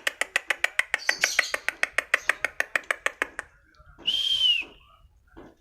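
White-rumped shama (murai batu) singing: a fast run of sharp repeated notes, about eight a second, for about three and a half seconds, then one clear whistled note that rises and falls, about four seconds in.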